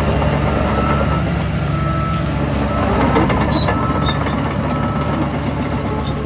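Heavy diesel engine of earthmoving machinery running steadily under load, swelling slightly about three seconds in, with a reversing alarm beeping about once a second.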